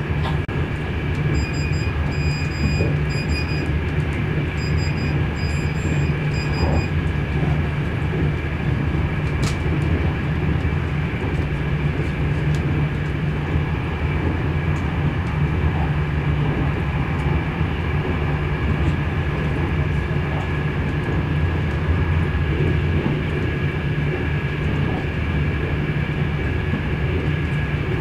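Moving train heard from inside the carriage: a steady low rumble with a faint constant high whine above it.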